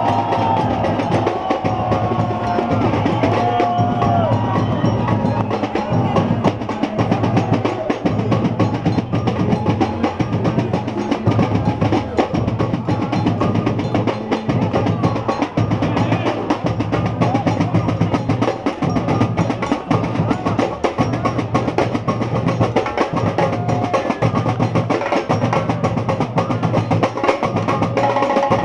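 Samba bateria playing live: a steady, driving drum rhythm with deep bass drums under snares and other hand percussion.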